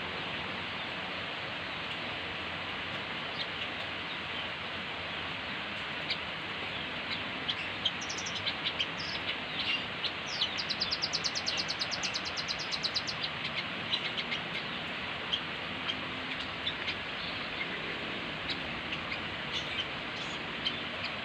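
Velvet-fronted nuthatch (rembetan) calling busily: scattered short, high chirps, with a rapid trill of evenly spaced notes lasting about three seconds near the middle, over a steady hiss.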